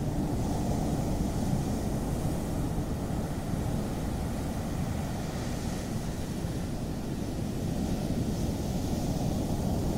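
Ocean surf on a beach: a steady low rumble of breaking waves, with the hiss of the wash swelling up three times, about a second in, around the middle and near the end.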